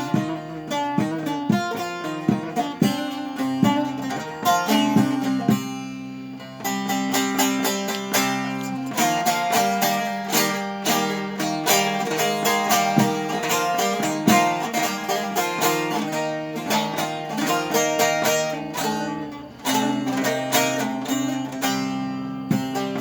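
A plucked string instrument plays a quickly picked instrumental passage of a Turkish folk tune over steady low drone notes, with brief pauses about six seconds in and again near the end.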